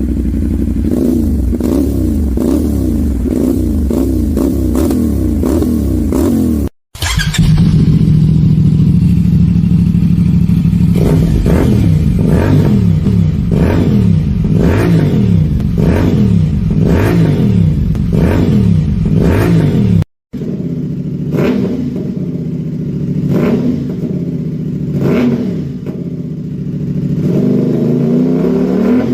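CFMoto 450 motorcycle's parallel-twin engine being revved over and over, its exhaust note rising and falling about once a second with each throttle blip. Near the end the note climbs in one longer rev. It breaks off abruptly twice, at about 7 and 20 seconds in.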